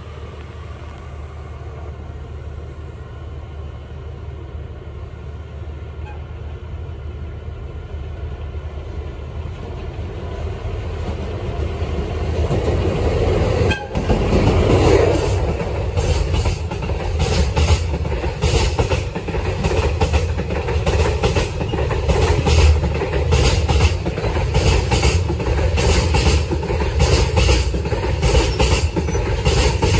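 A JR Freight DF200 diesel-electric freight locomotive approaches, its rumble growing steadily louder, and passes close about halfway through. A long train of container wagons follows, its wheels clattering over the rail joints in a fast, even rhythm.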